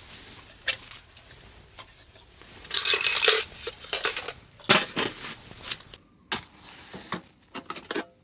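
Camp cookware and utensils being handled: a string of sharp clinks and knocks, with a denser clatter about three seconds in.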